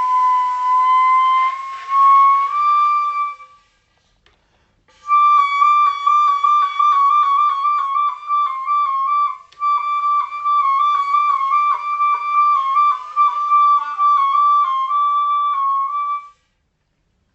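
Solo wind instrument, flute-like, playing music: a long note gliding slowly upward, a short break, then a rapid wavering passage flicking around one pitch, which stops shortly before the end.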